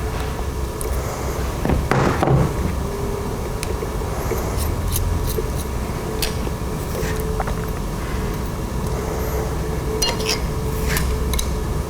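Scattered small clicks and clinks of metal parts and hand tools being handled while an edger's switch and wiring are reassembled, with a louder knock about two seconds in, over a steady low hum.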